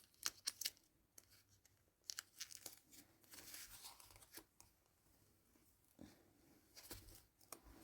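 Faint handling noise from yarn and crochet materials: soft rustling in short patches, with a few small sharp clicks.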